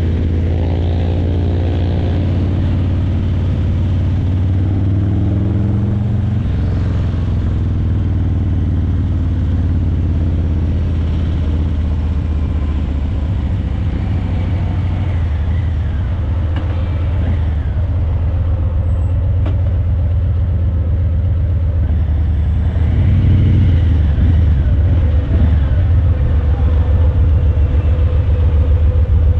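Harley-Davidson Breakout 117's Milwaukee-Eight 117 V-twin running through Vance & Hines Eliminator 300 slip-on mufflers while riding slowly. The engine's pitch rises and falls with the throttle, with a shift about six seconds in, and it gets louder in the last few seconds.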